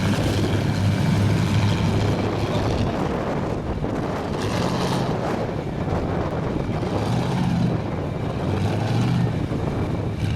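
Large mud-truck engine running steadily with a low drone, its pitch wavering slightly.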